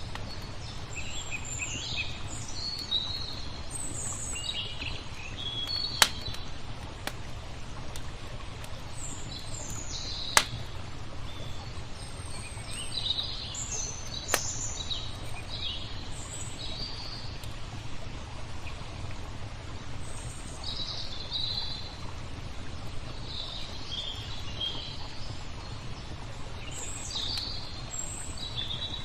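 Small birds chirping and twittering throughout, over a steady low rush. A wood fire crackles with a few sharp pops, the loudest about six, ten and fourteen seconds in.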